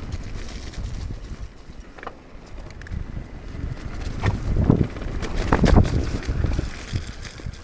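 Mountain bike riding fast down a wet, muddy trail: wind buffeting the microphone over a rough rumble of tyres and rattling bike, with a cluster of sharp knocks and clatters from bumps about halfway through.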